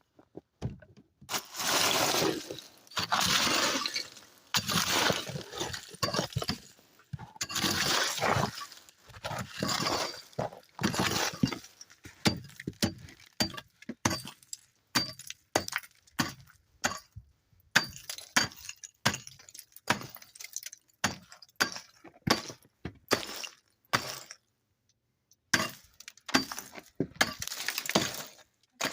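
Pick chopping into packed snow, making crunching, breaking strikes. In the first half come longer crunching stretches of a second or two each; after that come many short, quick strikes with brief pauses between them.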